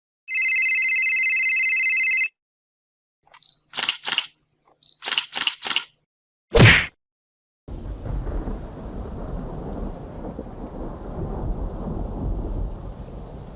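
A run of stock sound effects: a two-second electronic phone tone, then a series of camera-shutter clicks, then a single punch hit. Steady rain with thunder follows for the rest.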